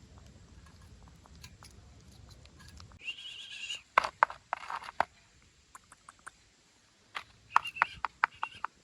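A young puppy squeaking: one thin, high squeak about three seconds in, then sharp little clicks, and a run of short clicks and brief squeaks near the end.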